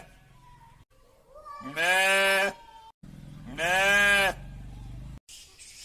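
A sheep bleating twice, each bleat a little under a second long and about two seconds apart, with a slight rise and fall in pitch.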